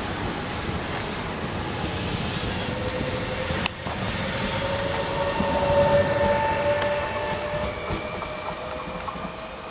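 Electric Jazz regional train running past on a curve, a steady rumble of wheels on rail with a faint whine that rises a little in pitch. A brief break about four seconds in, then a train comes closer and louder, peaking around six seconds before easing off.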